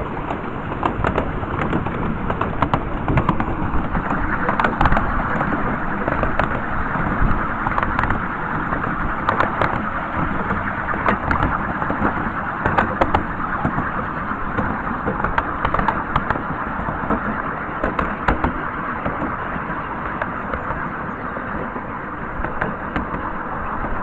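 Miniature railway train running: a steady rumble of wheels on the track, with frequent irregular clicks and knocks.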